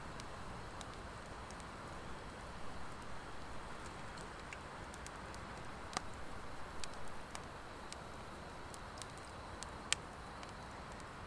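Wood fire of driftwood and dry hardwood logs burning, with a steady hiss and scattered light crackles. Two sharp pops stand out, about six seconds in and near the end.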